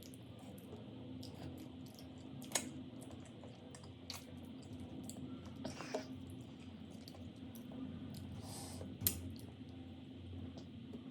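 A person eating: chewing with lip smacks and small scattered mouth clicks, a few sharper ones standing out, over a steady low hum.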